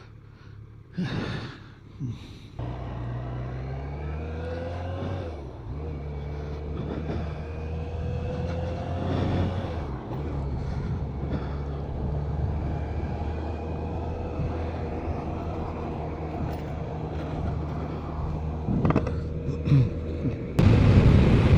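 BMW K1200RS inline-four motorcycle engine pulling away and accelerating, its pitch rising and dropping twice as it shifts up through the gears, then running steadily at cruise. About a second before the end a sudden loud rush of wind noise comes in over it.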